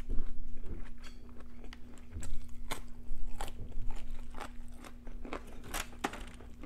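Close chewing of raw cauliflower, a series of irregular crisp crunches.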